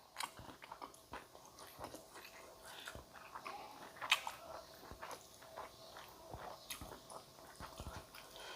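A person chewing food with the mouth close to the microphone: faint, irregular small clicks and crunches.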